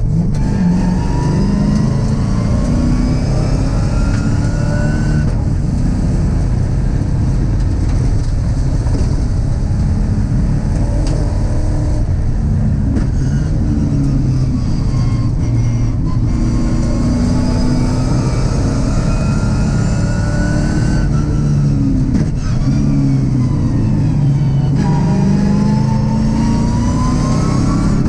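GM LS V8 engine in a Mazda MX-5 race car, heard from inside the cockpit, pulling hard under full throttle. Its pitch climbs through the revs and breaks off at upshifts, drops away twice under braking and downshifts for corners, then climbs again as the car accelerates out.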